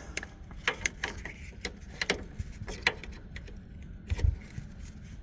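Scattered sharp metallic clicks and clinks from hand tools and bolts being handled, with a dull thump about four seconds in.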